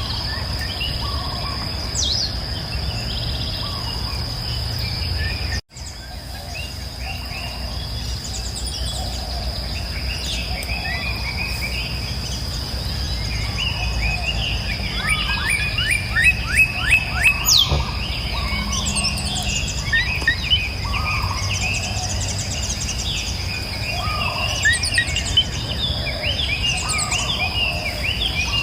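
Several songbirds singing and calling in overlapping chirps and short phrases, with a quick run of repeated notes about halfway through, over a steady high-pitched insect drone. The sound drops out briefly about six seconds in.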